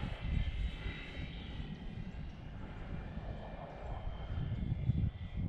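Electric motor and propeller of a Durafly BF109e foam RC warbird in flight, a faint steady whine, over a low uneven rumble of wind on the microphone.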